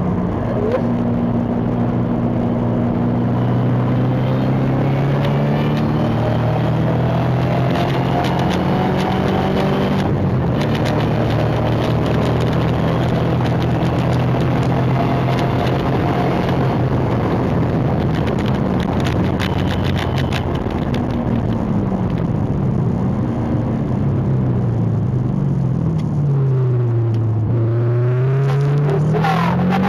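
A Dodge Hellcat's supercharged V8 heard on board at hard driving around a track, its pitch climbing under acceleration in the first ten seconds, then falling and rising again through the corners, dropping low late on and climbing steeply near the end.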